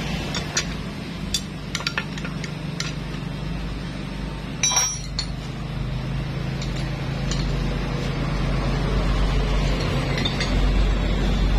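Small metal engine parts and tools clinking and tapping against each other during hand assembly of a motorcycle engine, in scattered single knocks with a brief busier rattle about five seconds in. A steady low rumble underneath grows louder near the end.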